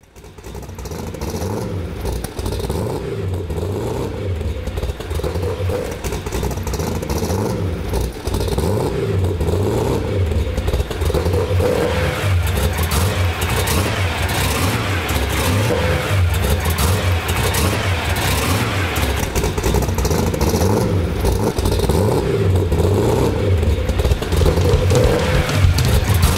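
Engine of a custom-built red sports car running at low revs with a deep, steady exhaust rumble as the car creeps out of a garage. The sound fades in over the first second or two.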